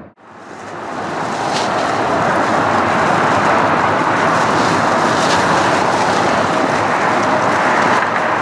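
Jet airliner engines running with a steady roar. It rises out of a brief silence at the very start over about a second.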